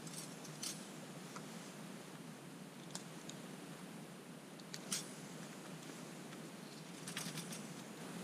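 Wood campfire burning with a low steady hiss and occasional sharp crackles and pops, including a quick run of pops near the end.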